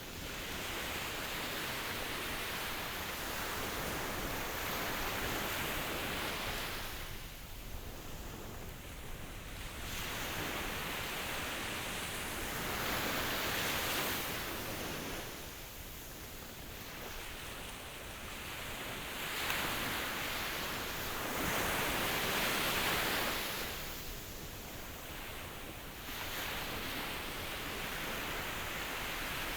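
Ocean waves washing in as a steady rushing surf that swells and falls back in slow cycles, with quieter lulls about every eight seconds.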